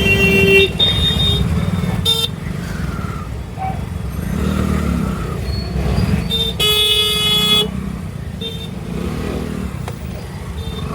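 Road traffic heard from a moving scooter, with a steady low rumble of wind and traffic and several vehicle horns honking: short toots in the first couple of seconds and a loud honk about a second long around seven seconds in.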